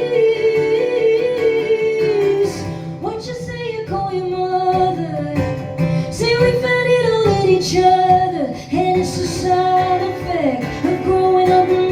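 A woman singing a song live with guitar accompaniment, holding long sustained notes.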